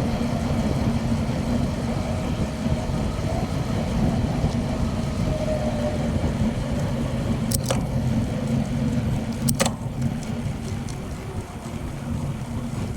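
Steady low rumble of wind and rolling noise from a bicycle being ridden, with two sharp clicks about two seconds apart past the middle.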